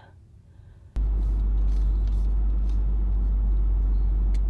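Toyota 4Runner driving: a steady, loud low rumble of road and engine noise that starts suddenly about a second in, after a near-quiet first second.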